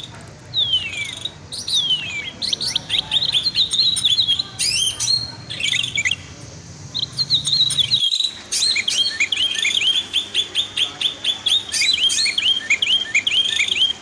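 Songbird chirping rapidly: strings of short high chirps and twitters, with two long downward-sliding whistles near the start. There is a brief gap about eight seconds in.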